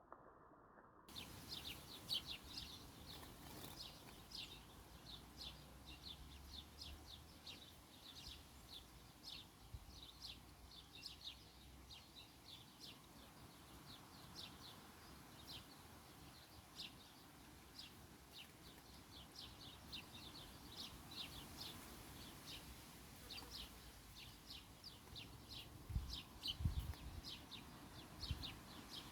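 Small birds chirping: quick, high, repeated chirps, many to the second, starting about a second in, with a few low thumps near the end.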